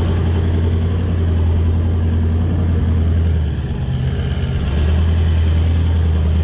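Truck engine running under load as it climbs a steep, rough track, heard from inside the cab; the engine note drops about three and a half seconds in and comes back up about a second later.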